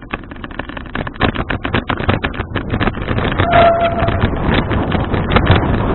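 Wind rushing over and buffeting a bicycle-mounted action camera's microphone while riding, growing louder over the first few seconds, with frequent clicks and knocks throughout.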